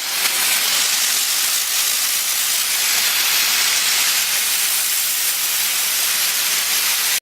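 Steam gun of a diesel mobile steam car washer spraying steam at its wettest setting: a steady, loud hiss.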